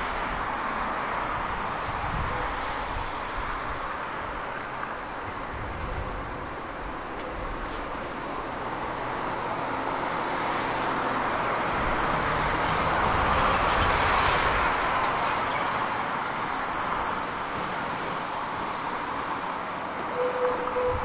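Steady outdoor traffic noise mixed with the E001 series TRAIN SUITE Shiki-shima pulling out and slowly approaching; the sound swells to its loudest about two-thirds of the way through.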